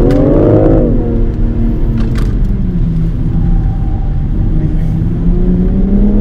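BMW car engine accelerating hard in first gear, dropping in pitch at the upshift to second about a second in, then pulling steadily in second with the pitch slowly rising again near the end.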